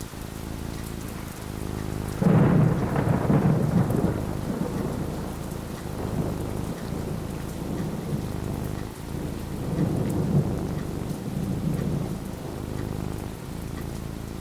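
Steady rain falling, with a sudden clap of thunder about two seconds in that rumbles on for a couple of seconds. A second, weaker roll of thunder comes around ten seconds in.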